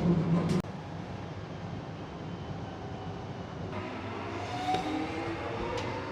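Suburban electric train running, with a steady rumble and a whine that rises in pitch from about four seconds in, as when a train picks up speed. A louder low hum cuts off abruptly about half a second in.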